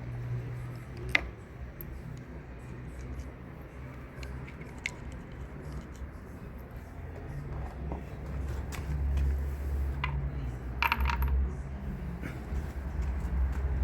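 Metal clicks and clinks of tools and small parts while a car alternator is unbolted and taken apart: a sharp click about a second in and a short ringing clink of metal about eleven seconds in, over a low steady rumble.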